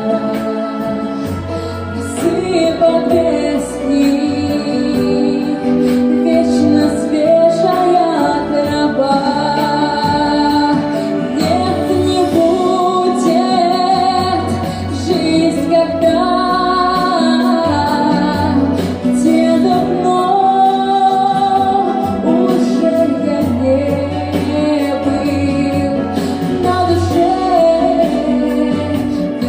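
A woman singing a song over instrumental accompaniment with a steady bass line.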